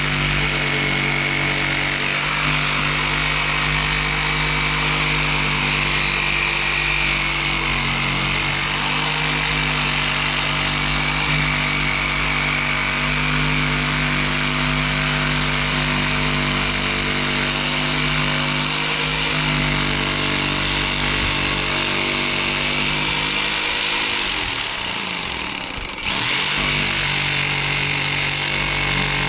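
A power tool's motor running at a steady high speed with a high whine. About 24 seconds in it slows and drops in pitch, then picks back up to full speed about two seconds later.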